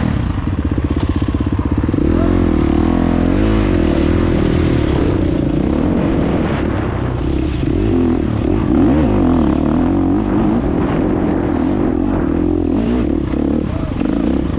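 Dirt bike engine running while riding, its pitch repeatedly rising and falling as the throttle is worked.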